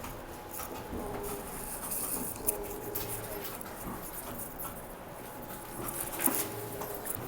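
Inside a TTC streetcar pulling into the station: running rattles and clicks, with faint brief tones and two sharp knocks, about two and a half seconds in and near the end.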